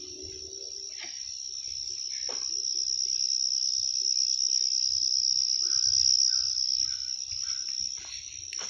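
A steady high-pitched insect trill that swells to its loudest about six seconds in, then fades.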